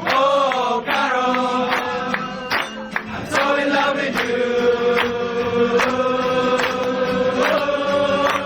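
A group of restaurant waiters singing together over a music backing, in a chant-like chorus with long held notes.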